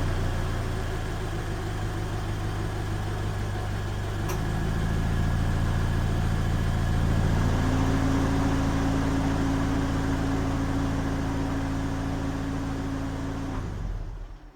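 Toyota 86 (ZN6)'s 2.0-litre flat-four idling through a 5ZIGEN SP aftermarket muffler, a steady, fairly low exhaust note. The sound stops just before the end.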